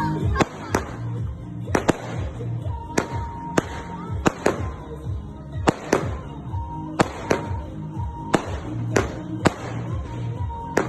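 Fireworks going off in a rapid, irregular string of sharp bangs, roughly two a second, over music playing in the background.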